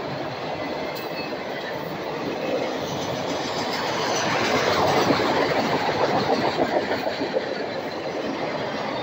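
Freight train of autorack cars rolling past: a steady rumble and rattle of steel wheels on the rails. It grows louder about four seconds in, with a quick run of sharp clacks before easing back near the end.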